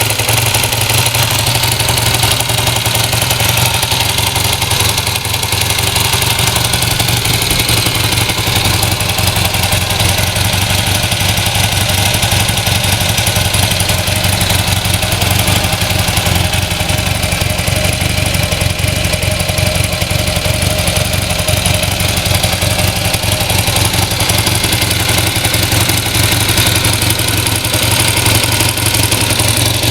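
Honda Hawk II (CB400T) parallel-twin engine idling steadily through its stock muffler.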